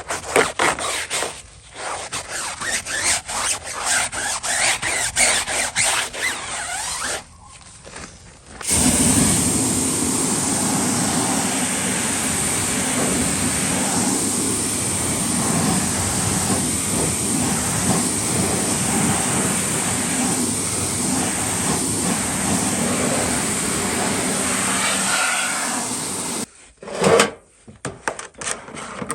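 Brush or mitt scrubbing on the car in quick irregular strokes, then a steady spray of water, most likely a pressure washer, that starts and stops abruptly. The scrubbing strokes resume briefly near the end.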